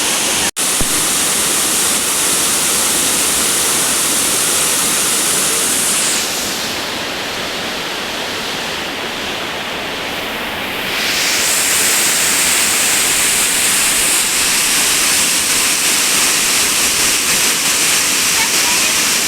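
Waterfall: loud, steady rushing of falling water. It cuts out for an instant about half a second in and sounds duller for a few seconds in the middle.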